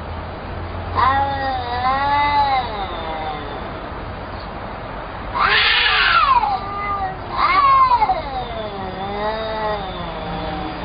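A cat meowing in about four long, wavering calls, the loudest one about halfway through and falling in pitch.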